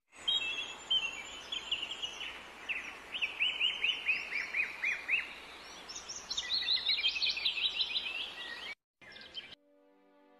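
Birds chirping in runs of quick notes that fall in pitch, over a steady background hiss. Near the end the birdsong cuts off and soft music begins.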